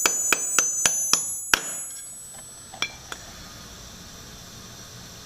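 Quick hammer blows on steel with a bright metallic ring, about six in the first second and a half, knocking the old rod bolts out of the small-block Chevy connecting rods. Two fainter taps follow near three seconds over a low steady hum.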